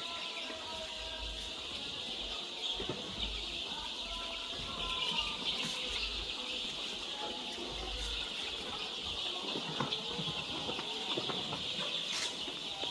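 A brood of 11-day-old chicks peeping and chirping continuously, many short calls overlapping into a steady chorus.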